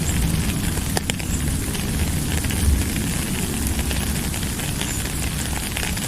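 Steady rain falling, with scattered ticks of drops striking, one sharper tick about a second in, and a low rumble underneath.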